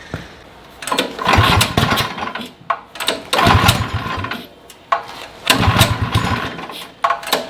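Go-kart's small engine being pull-started three times, each time firing for a second or two on starting fluid and then dying: it will only start with starting fluid.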